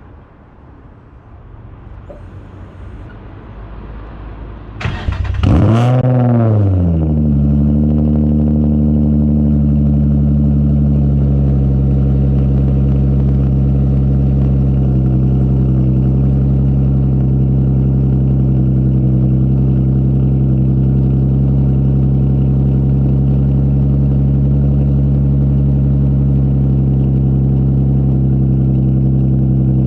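Infiniti G35's 3.5-litre V6 starting up through a straight-piped exhaust (non-resonated test pipes, wide pipe, single-exit muffler, no resonator): it catches loudly about five seconds in, the revs flare up and drop back, and it then settles into a steady, loud idle.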